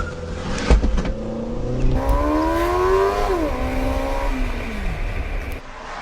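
Car engine accelerating hard, its pitch climbing, then dropping as the revs fall, with a sharp knock under a second in.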